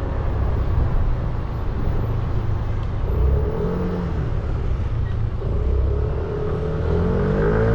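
A 300 cc motorcycle engine running on the move over road and wind noise; its pitch rises briefly a few seconds in, then climbs steadily near the end as the bike accelerates.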